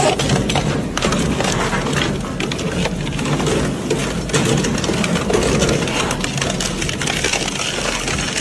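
A machine running steadily with a low hum and dense, rapid clattering.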